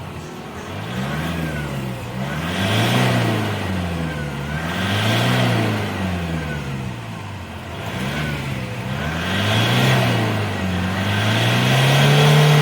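Toyota Fortuner's 2KD four-cylinder turbodiesel revved repeatedly through a new aftermarket racing exhaust and full pipe, its note rising and falling several times in a row.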